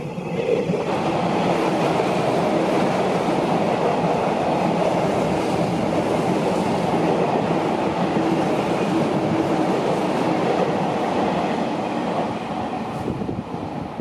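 Sotetsu 9000 series electric train running along the platform, a loud steady rumble of wheels on rail that builds about a second in, holds, and falls away near the end.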